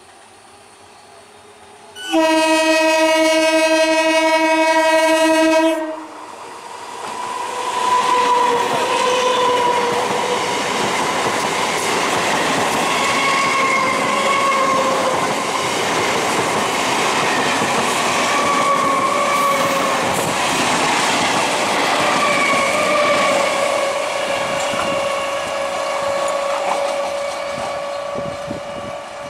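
Electric multiple unit (EMU) local train sounding one long horn blast of about four seconds, then running past close by with its wheels rattling over the rails and a steady whine that wavers slightly in pitch, fading a little near the end.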